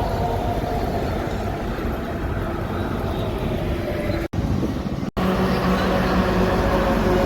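Road traffic with a heavy truck's engine running as it passes. The sound cuts out abruptly twice, about four and five seconds in; after that a steady low engine drone is stronger.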